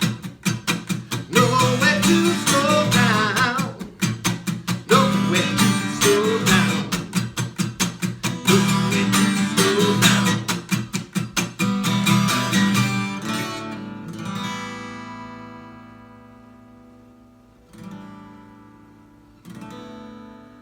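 Acoustic guitar strummed in a steady rhythm, with a voice singing over it in the first half. About thirteen seconds in the strumming stops and the last chord rings out and fades, then two single strummed chords sound and ring near the end.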